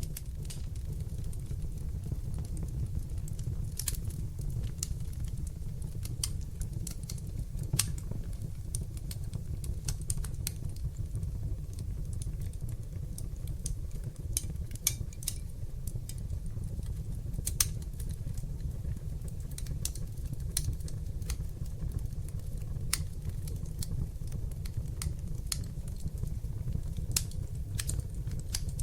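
Wood fire burning in a fireplace: irregular sharp crackles and pops over a steady low rumble of flames, a few pops louder than the rest.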